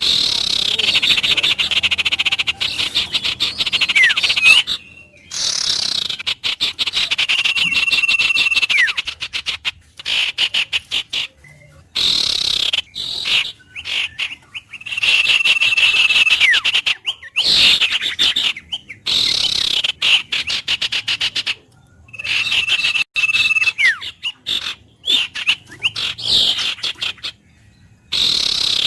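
Birds calling over and over in phrases of rapid chirps, some ending in a held whistle that drops in pitch, broken by short sudden gaps.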